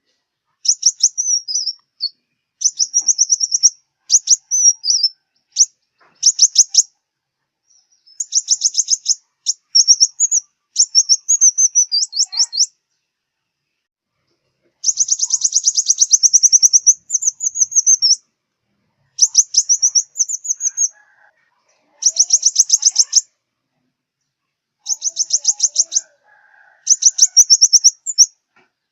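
Sunbird song: high, thin phrases of rapid twittering notes, each a second or two long and repeated after short pauses.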